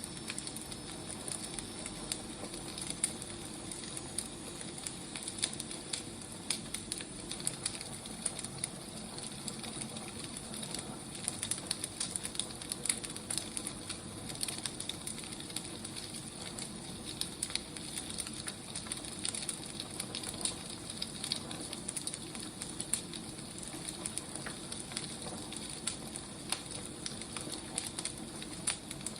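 Firewood burning: a steady hiss with many small, irregular crackles and pops.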